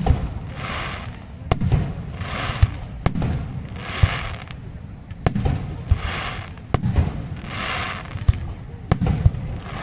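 Aerial fireworks shells bursting: a sharp bang about every second and a half, each followed by a short spell of crackling, over a low rumble of further bursts.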